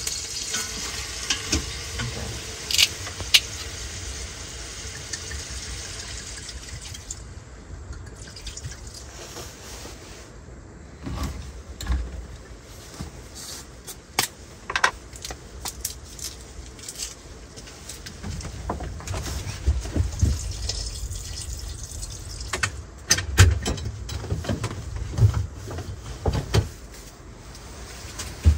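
Food sizzling as it fries in a pot, the hiss dying down after about six seconds, followed by scattered clicks, knocks and thumps of utensils and cookware being handled.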